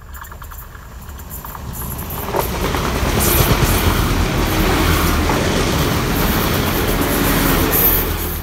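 NI Railways diesel multiple unit passing close by, growing louder over the first three seconds as it approaches, then a steady loud rush as the carriages go past.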